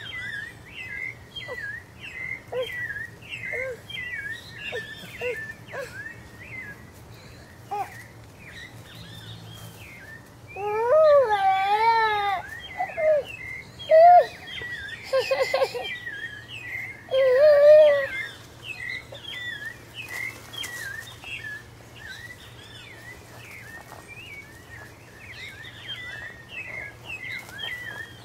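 Birds chirping over and over, a steady stream of short calls. In the middle a toddler's high voice calls out several times, wavering in pitch, louder than the birds.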